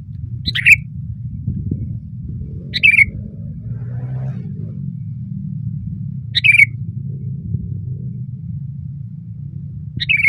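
Sooty-headed bulbul (kutilang) giving four short, loud calls a few seconds apart, over a steady low rumble.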